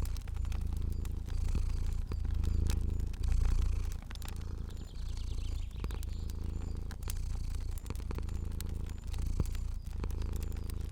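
Cat purring, swelling and easing with each breath about once a second, over the scattered pops and crackles of a wood fire.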